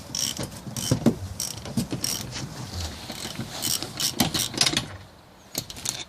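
Hand tools working on metal: a run of irregular metallic clicks and clanks that thins out about five seconds in.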